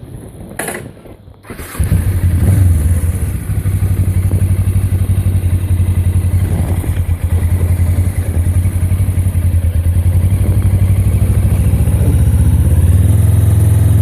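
A motorcycle engine cuts in suddenly about two seconds in, after a few knocks and clatter, then runs steadily with a low, evenly pulsing note.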